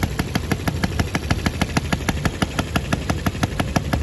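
RETROL & OKMO 1110 miniature model of a classic Japanese engine, running steadily with a rapid, even beat of sharp ticks over a low rumble.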